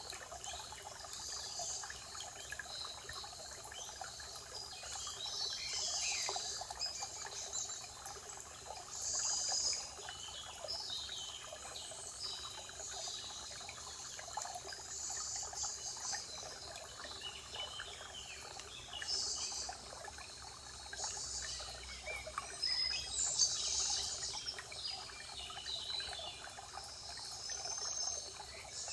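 Forest birds singing: short, high chirping phrases from several birds, one after another, over a steady background hiss.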